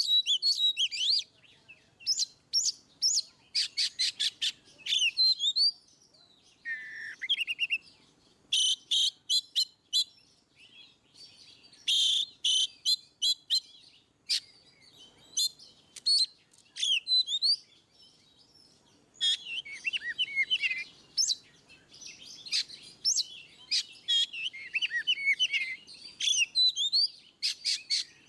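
Oriental magpie-robin (kacer) singing a loud, varied song in ngeplong style: quick trains of sharp repeated notes alternate with sliding whistles and warbled phrases, broken by a couple of brief pauses.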